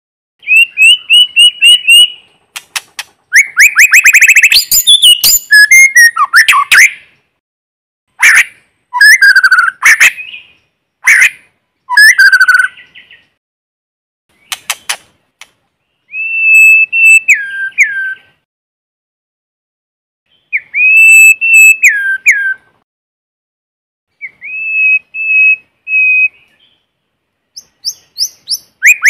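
White-rumped shama singing: loud, clear whistled phrases with pitch glides and sharp clicking notes, sung in separate bursts of one to three seconds with short silences between.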